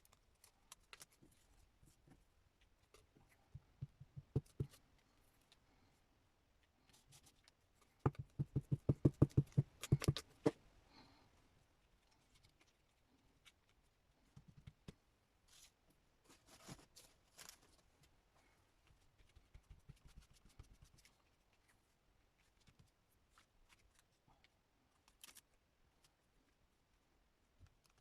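Paper and card being cut with scissors and handled on a craft desk: scattered clicks and rustles, with a quick run of snips about eight seconds in, the loudest part.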